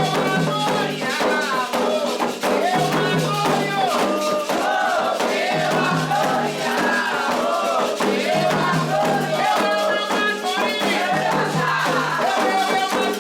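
Candomblé ritual song: a group of voices singing over steady hand percussion and a shaken rattle.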